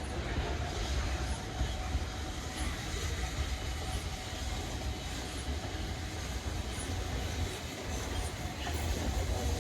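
Train running past on the rails with a steady rumble, the sound growing louder near the end.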